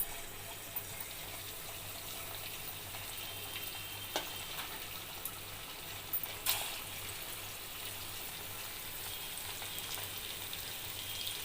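Chicken koftas deep-frying in hot oil in a kadhai: a steady sizzle, with a couple of light clicks about four and six and a half seconds in.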